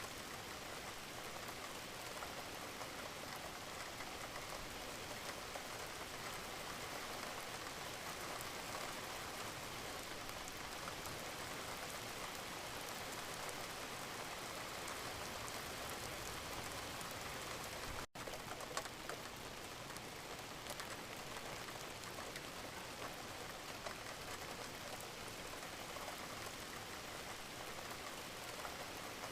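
Steady rain falling, an even hiss full of small drop patters. A little past halfway it drops out for an instant, and a sharp tick follows.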